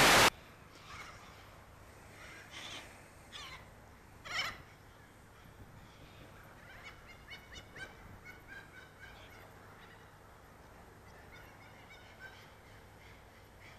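A short burst of TV-static hiss, then faint bird calls: a louder call about four and a half seconds in and a run of quick chirps a few seconds later.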